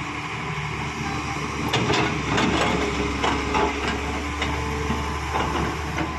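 Excavator engine running steadily, with irregular sharp metallic clanks and knocks over it.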